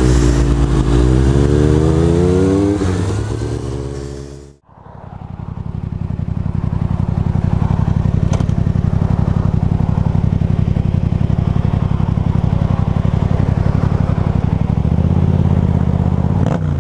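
Motorcycle engine rising in pitch as it accelerates, then fading out briefly. It comes back at a steady engine note and starts rising again near the end.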